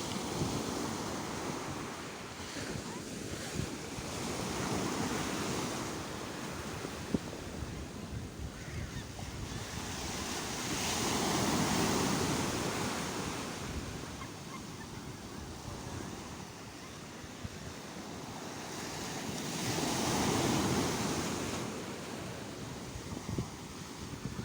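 Sea waves breaking and washing in. The surf swells and falls back in slow surges about every eight seconds, with the loudest surges near the middle and about three-quarters of the way through.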